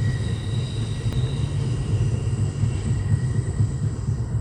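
Steady low rumble of a passenger train car in motion, heard from inside the car, with faint high steady tones that fade out over the first couple of seconds.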